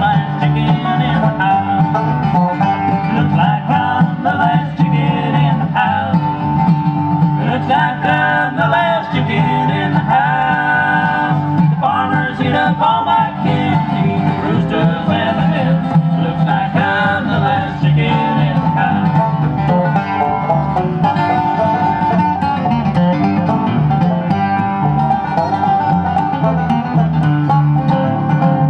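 Acoustic bluegrass band playing an instrumental break between verses, with a banjo and a guitar.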